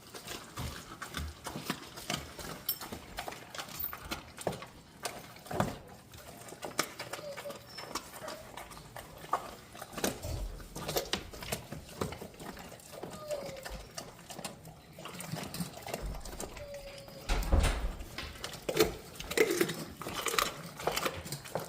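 Mastiff puppy chewing and crunching a raw meaty bone: irregular cracks and wet gnawing, with a few heavier thuds about two-thirds of the way through.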